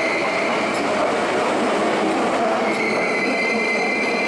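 Hankyu electric train moving through the station with a steady rolling rumble. A high-pitched wheel squeal drops away and comes back in about two and a half seconds in, with a few faint clinks.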